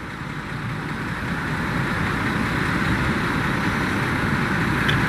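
A heavy engine running with a rough low rumble that grows steadily louder, over a steady hiss.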